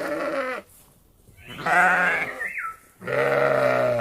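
Sheep bleating: three quavering bleats, the first short and the next two longer.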